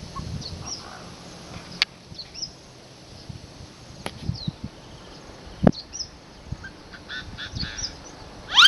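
Bird calls: short high chirps scattered throughout, and a fast rising call near the end, with a few sharp clicks or knocks in between.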